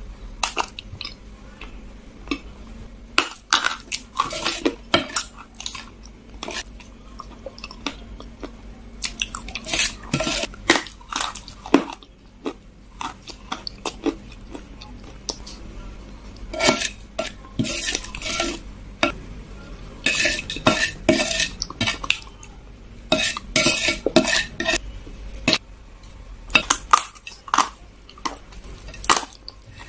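Dry chunks of kaolin (kalaba) clay crunching and snapping in irregular clusters of sharp, crisp cracks and clicks, with short pauses between them.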